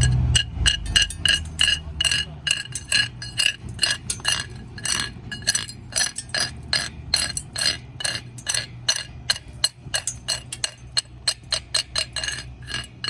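Chipping hammer knocking slag off a fresh stick-electrode weld bead on steel: quick ringing metal-on-metal strikes, about four a second, that stop near the end.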